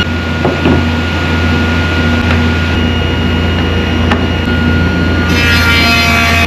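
A machine running steadily, with a constant hum and a high whine. About five seconds in, a harsher, higher-pitched sound joins it.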